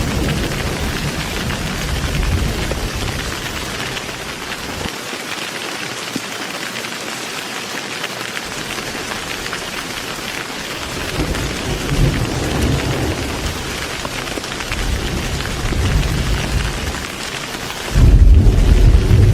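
Heavy rain falling steadily, with thunder rumbling low and swelling and fading several times. A loud thunderclap breaks in suddenly near the end.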